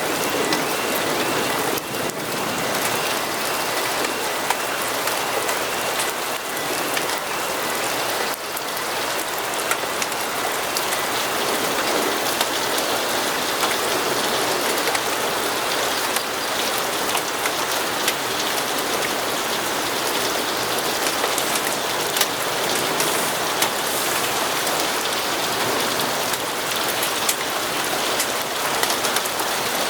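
Steady rain falling on a hard surface, a constant hiss with many small sharp drop ticks scattered through it. Two faint high steady tones sound in the first few seconds and then fade out.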